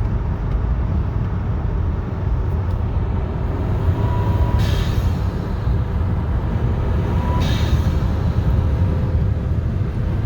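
2015 Jetta's turbocharged 1.8T four-cylinder with an ECS cold air intake pulling hard under load. A faint whistle builds up twice, and each time it ends in a short blow-off valve whoosh, about four and a half seconds in and again at about seven and a half seconds.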